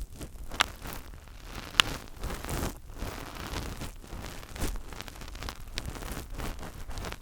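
Fingers rubbing and scratching directly on a microphone: a close, continuous rustling broken by sharp little ticks, the loudest about two seconds in.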